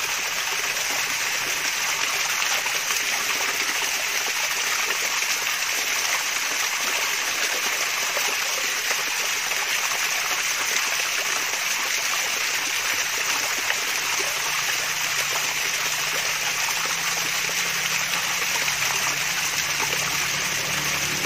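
Small cascading waterfall, its water splashing and trickling in a steady hiss.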